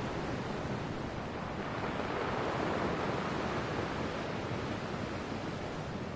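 Ocean waves washing onto a shore: a steady rush of surf that swells about two to three seconds in and then eases.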